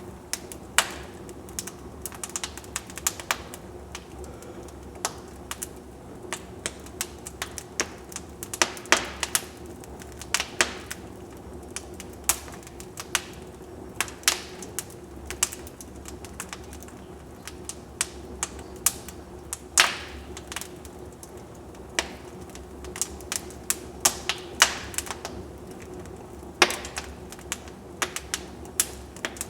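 Wood fire crackling in a fireplace: irregular sharp snaps and pops, a few much louder than the rest, over a steady low background of the burning fire.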